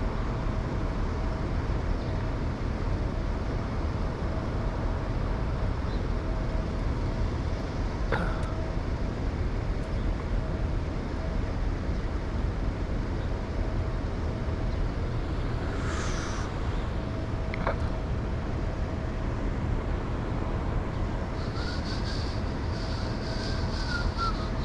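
Steady low rumble of city background noise, like traffic, with a few faint clicks and some faint high chirps near the end.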